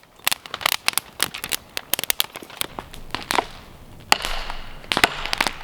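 Dry kindling and twigs crackling and snapping in quick, irregular clicks.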